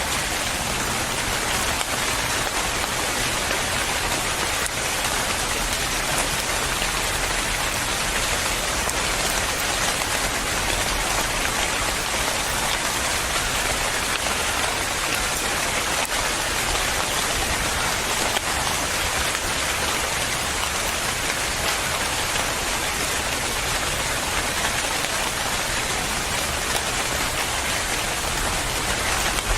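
Steady rain falling, a continuous even hiss with many fine drop ticks on a surface.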